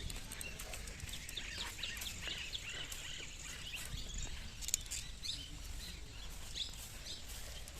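Small birds chirping, a string of short high chirps in quick succession that thin out near the end, over a steady low background rumble.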